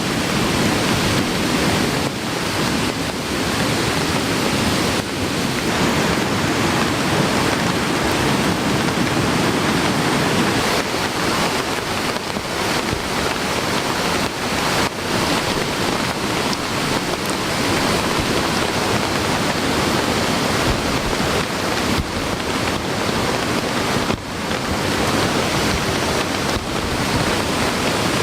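Heavy rain falling together with a swollen, fast-running mountain stream: a loud, steady rush of water noise.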